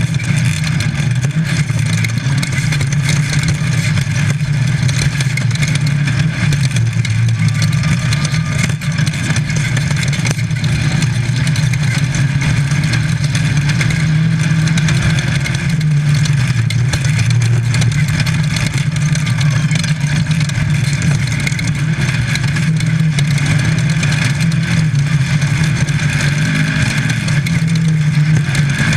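A VW Baja Bug desert race car's engine running hard under load, its note rising and falling with the throttle, heard from inside the car under a constant noisy rush of wind, dirt and chassis rattle.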